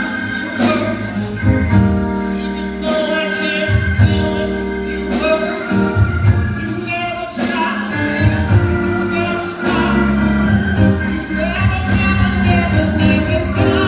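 Gospel music: voices singing over instrumental accompaniment with a strong, steady bass line.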